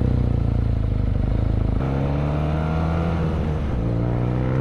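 BMW R nineT's boxer-twin engine heard while riding; its note changes about two seconds in, then rises in pitch as it accelerates.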